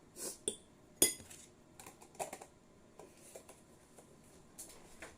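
A spoon clinking and scraping against dishes as sambal is served. There is a sharp clink about a second in, then a cluster of lighter clinks and a few scattered taps.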